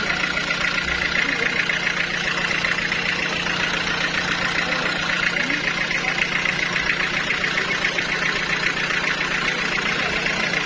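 Sawmill machinery running steadily, a continuous engine-like drone with a fast, fine pulsing and no break or change.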